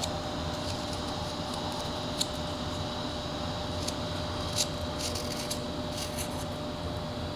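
Whittling knife cutting and shaving wood: a handful of short, sharp slicing clicks, mostly around the middle, over a steady background hum.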